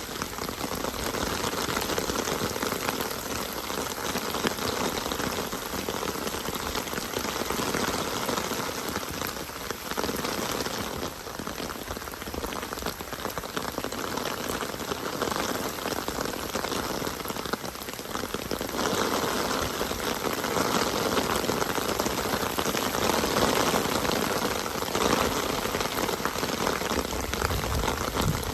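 Steady rain: a dense patter of drops on surfaces, swelling and easing a little.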